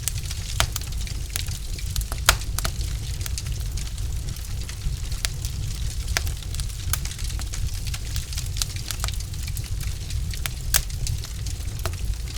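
Logs burning in a fireplace, crackling: irregular sharp pops and snaps over a steady low rumble of the fire. The loudest pops come about two seconds in and again shortly before the end.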